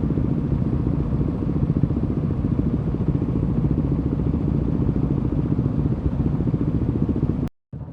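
Single-cylinder KTM 390 Duke engine running steadily through an Akrapovic slip-on exhaust with a decat pipe, a deep, rapid pulsing exhaust note. It cuts off abruptly near the end.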